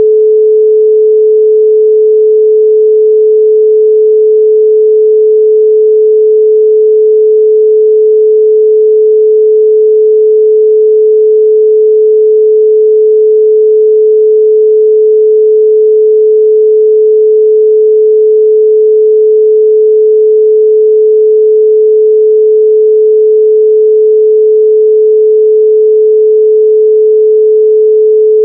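A steady 432 Hz pure sine tone, held unchanging and loud.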